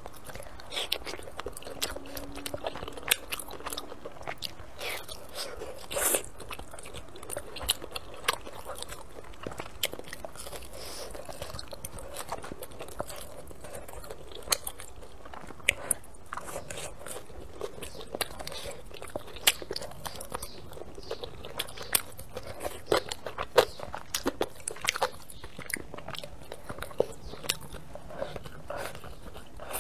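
Close-miked chewing of fried glutinous rice cake (ciba): irregular wet mouth clicks, smacks and bites.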